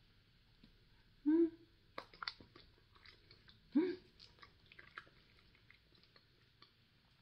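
Close mouth sounds of someone eating peach konjac jelly: soft wet chewing clicks, with two short hums about a second and a half and four seconds in.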